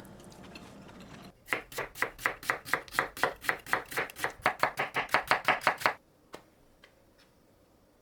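Kitchen knife chopping rapidly on a cutting board, about six even strokes a second, starting about a second and a half in and stopping abruptly near six seconds.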